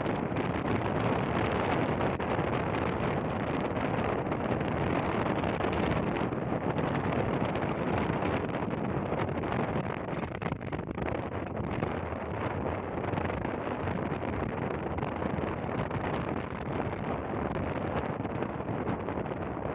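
Wind buffeting the microphone, a steady rushing noise that eases a little about halfway through.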